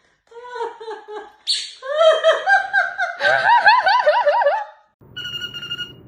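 A parrot mimicking human laughter: a run of high, clear ha-ha-ha calls that wobble rapidly up and down in pitch. Near the end this gives way to two steady electronic ringtone-like beeps.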